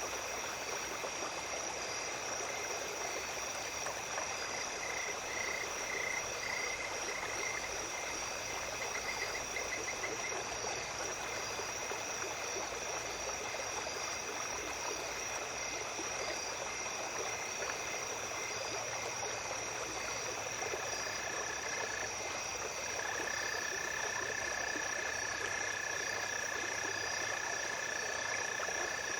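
Small stream running steadily under a chorus of calling insects: a continuous high trill and a pulsing chirp throughout, a short rattling call about a quarter of the way in, and a long steady trill joining about two-thirds of the way through.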